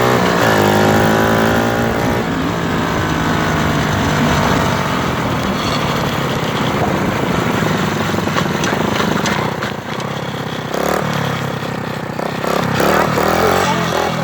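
Motorcycle engine running as it is ridden; its pitch slides down early on, then it carries on steadily under a rushing noise. The engine note dips briefly about two-thirds through and picks up again near the end.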